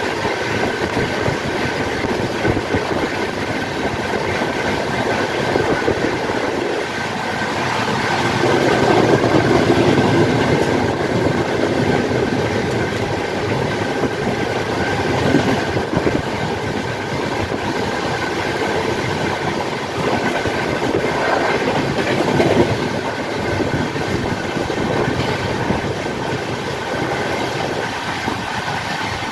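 Two express trains running side by side at speed, heard from an open coach door: a steady rumble and clatter of wheels on the rails with rushing air and a faint steady whine. It swells louder for a few seconds about a third of the way in.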